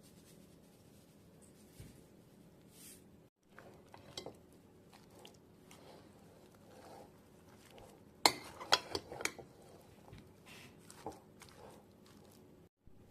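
Kitchen utensils and dishes clinking and knocking quietly during food preparation, with a quick run of sharper, louder clinks about eight seconds in.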